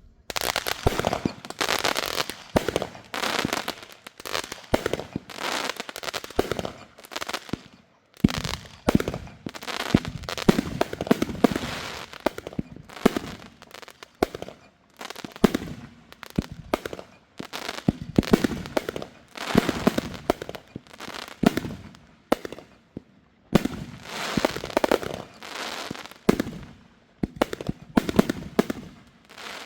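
Consumer fireworks going off in long volleys of rapid pops, with brief pauses between volleys.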